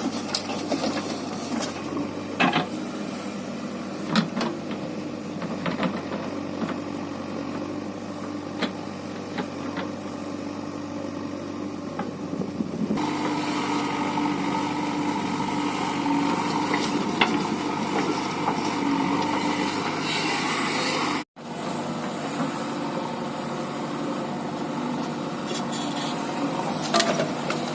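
Sonalika DI 47 RX tractor's three-cylinder diesel engine running steadily, with scattered clicks and rattles. The sound changes abruptly about halfway through and drops out for an instant near the two-thirds mark.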